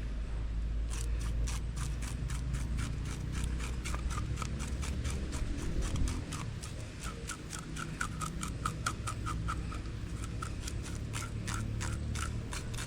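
Quick, repeated scraping strokes of a knife over a small fish, scaling it during cleaning.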